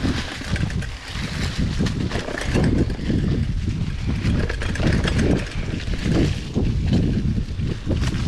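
Wind buffeting the microphone as a mountain bike rolls along a dirt trail, with a steady hiss and a fluctuating low rumble broken by short knocks and rattles from the bumps.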